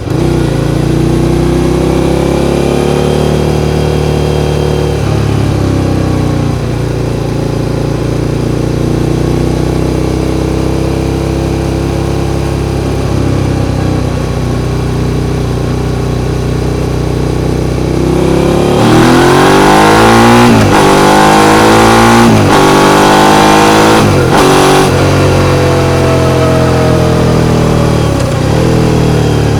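Suzuki SV650's 645 cc 90-degree V-twin running under way, fairly steady at first. About two-thirds in it gets louder and pulls hard, rising in pitch several times with a sharp drop between each rise as it is shifted up through the gears, then eases off.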